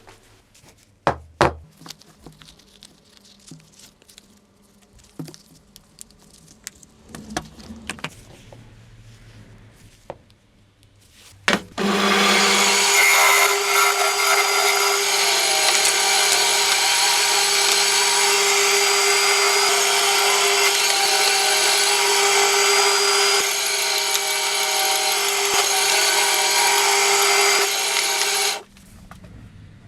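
Scattered knocks and clicks of tools being handled, then a power tool switches on about twelve seconds in, runs at a steady speed for about seventeen seconds and switches off near the end.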